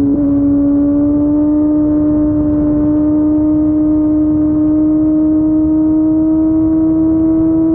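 Kawasaki ZX14R's inline-four engine through an Akrapovic Racing Line exhaust, pulling steadily in one gear, its note climbing slowly and evenly.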